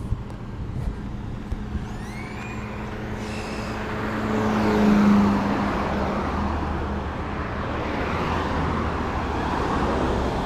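Road traffic on a busy city street: a motor vehicle passes close, its engine hum swelling to a peak about five seconds in, then a steady wash of traffic noise. A few short high chirps come before it.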